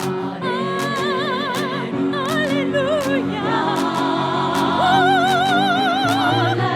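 One woman's voice multitracked into a three-part women's chorus, singing sustained notes with wide vibrato over piano accompaniment, with a sharp tapping beat underneath.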